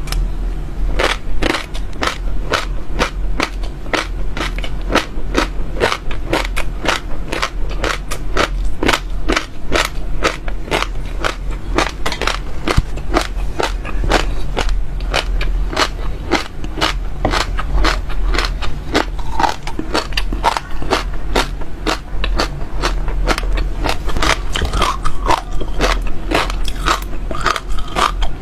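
Close-miked crunching of seeds being bitten and chewed in the mouth: a steady stream of sharp, crisp cracks, several a second.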